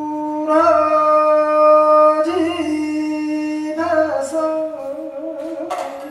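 Unaccompanied Gyeonggi folk-song (japga) singing: one voice holds long steady notes, then from about four seconds in breaks into a quick, wavering shake of the pitch.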